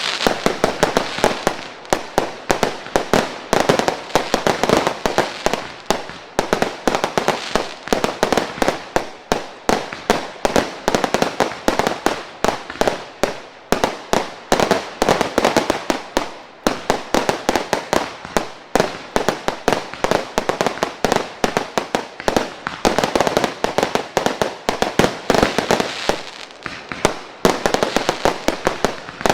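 Top Gun firework cakes firing in a rapid, unbroken volley: sharp launch shots and aerial bursts several a second, mixed with crackling breaks.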